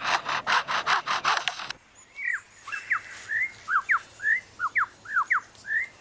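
Superb lyrebird mimicking foresters' chainsaws and sawing: rhythmic rasping strokes about four a second, which cut off abruptly under two seconds in. A run of short whistled bird chirps follows, each sweeping quickly up or down in pitch.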